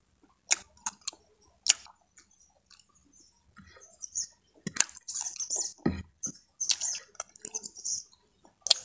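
Close-up eating sounds of a person chewing food eaten by hand: wet chewing and lip smacks, with a scatter of sharp clicks throughout and denser smacking in the second half.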